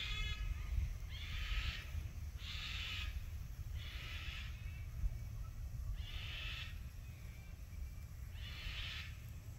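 A bird calling over and over, a short harsh call about every one to two seconds, over a steady low rumble.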